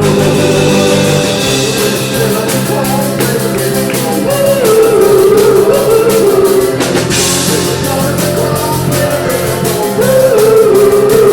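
Live rock-and-roll band playing, with a lead vocal melody over guitar and a steady drum beat.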